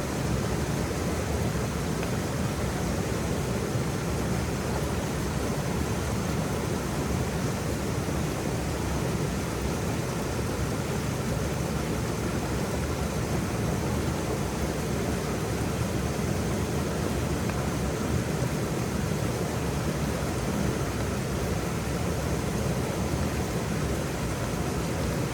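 Waterfall: a steady, unbroken rush of falling water, heaviest in the low range, with no change in level.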